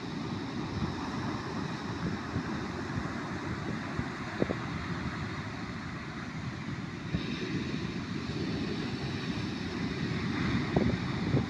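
Ocean surf breaking and washing on a beach, a steady rushing, mixed with wind rumbling on the microphone.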